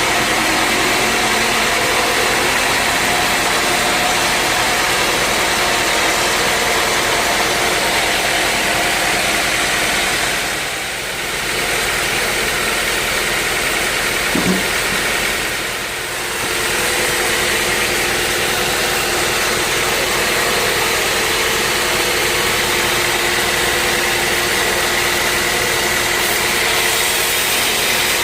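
Sawmill machinery running steadily, a continuous engine-like drone with hiss; the level dips briefly twice, about eleven and sixteen seconds in.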